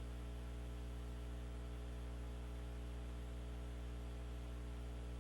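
Steady electrical mains hum with a faint hiss on the audio feed.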